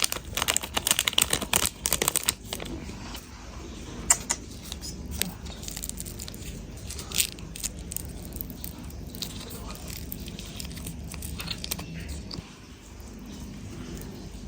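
Plastic instant-noodle packets crinkling and being torn open, dense for about the first two seconds, then scattered rustles and light clicks.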